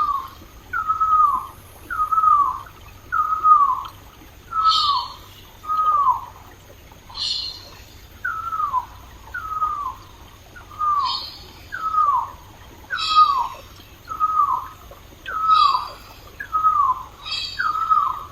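A bird calling over and over, a short downward-slurred note about once a second, with a higher chattering call now and then. Faint running water underneath.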